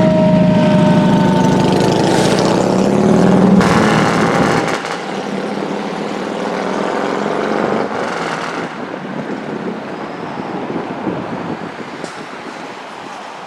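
Fire engine driving past: a siren winding down, falling in pitch and fading in the first second or two, over a loud heavy truck engine and road noise. The engine noise drops away about four and a half seconds in and the traffic sound slowly fades.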